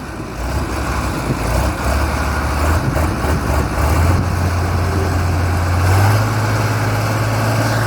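Farm tractor diesel engines running and revving up. The low engine note climbs in steps, about half a second, four and six seconds in.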